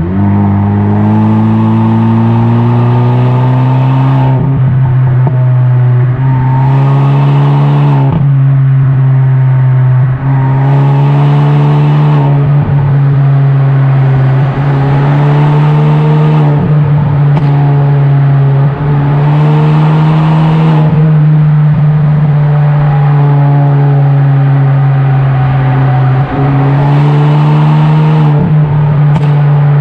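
Kia K5 (DL3) 1.6-litre turbo four-cylinder with a tuned aftermarket exhaust, driving. The note climbs in pitch under acceleration and drops back again and again, over a steady low drone.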